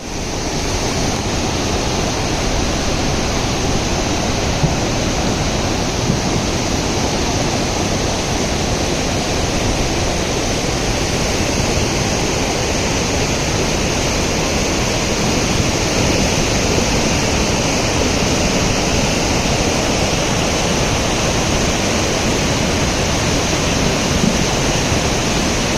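A big river in flood, its swollen water rushing steadily and loudly.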